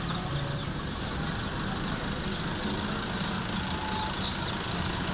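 Small caged birds chirping with short, very high whistles over a steady low engine rumble.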